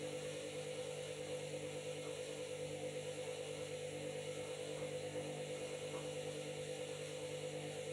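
Washing machine running with a load of bed linen, its drum turning at a steady speed: an even motor hum with a higher steady whine that does not change or pause.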